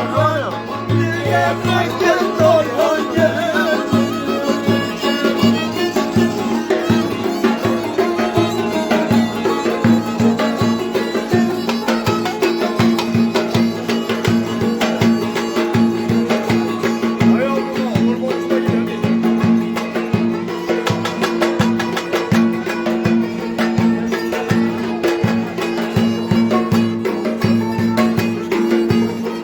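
Turkish folk dance music of the Ereğli–Alaplı kind (oyun havası): a fiddle-like bowed melody over a held drone and a steady drum beat.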